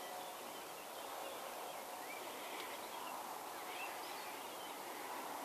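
Steady background hiss with faint, scattered bird chirps.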